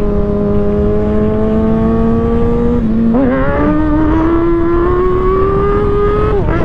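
Kawasaki Ninja ZX6R's inline-four engine pulling steadily, its pitch creeping slowly up, with a gear change about three seconds in and another near the end, over wind noise.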